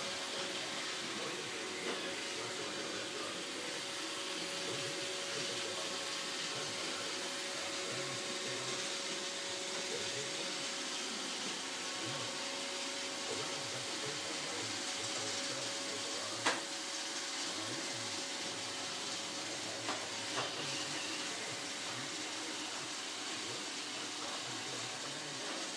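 Roomba robotic vacuum cleaner running steadily, a constant whirring hiss with a steady hum. A sharp knock sounds about two-thirds of the way through, followed by two smaller clicks a few seconds later.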